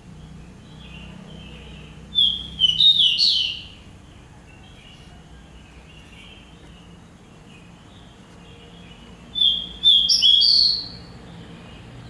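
A small bird calling: two loud bursts of several quick, high chirps, about seven seconds apart, with soft twittering between them.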